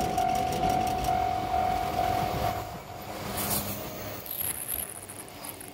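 Kumoya 443 electric inspection car running past a level crossing, over the crossing alarm ringing its repeated bell about twice a second. The bell stops and the train noise drops away about two and a half to three seconds in.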